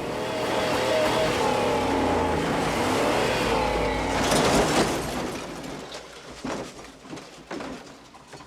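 A motor vehicle engine revving, its pitch rising and falling, then a loud noisy burst about four seconds in, followed by a few scattered thumps as the sound dies away.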